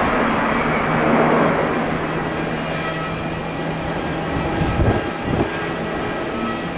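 Airbus A330 jet engines after landing: a loud roar that dies away over the first two seconds, leaving a steady engine whine with several held tones. Wind buffets the microphone in a brief low rumble about five seconds in.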